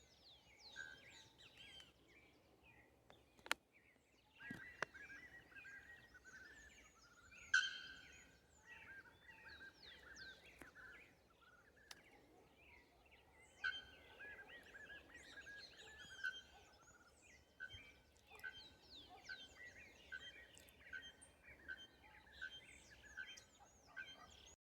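Faint, dense chorus of wild birds: many short chirps and whistles overlapping throughout, with two sharp clicks a few seconds in.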